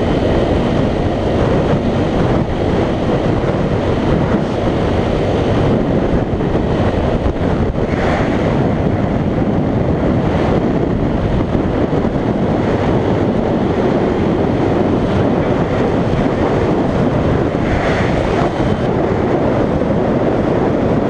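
Wind rushing over a GoPro microphone on a moving dual-sport motorcycle, a loud, steady noise with the bike underneath it.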